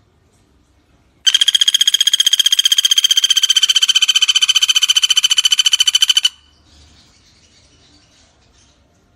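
Pelatuk bawang (common flameback woodpecker) giving one long, rapid, rattling trill of about five seconds that starts about a second in and stops abruptly.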